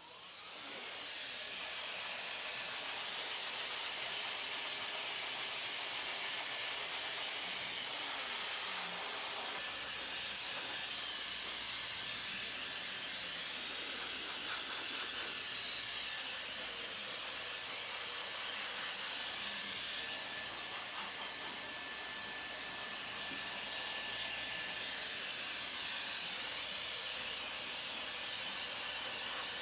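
Hair dryer blowing steadily after being switched on, its noise building up within the first second. It drops a little about two-thirds of the way through and then comes back up.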